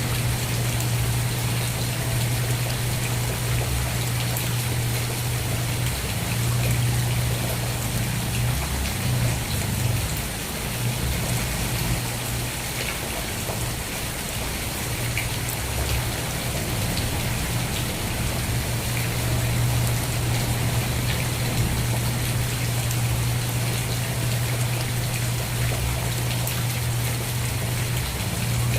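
Steady rain falling, an even hiss with faint scattered drop ticks, over a constant low hum.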